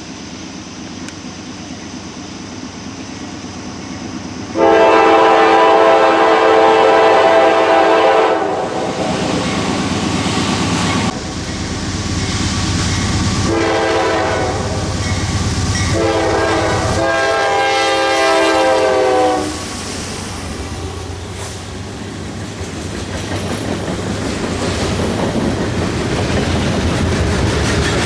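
Freight locomotive air horn sounding a long blast, a short blast, then another long blast, followed by the rising rumble and clatter of the train approaching.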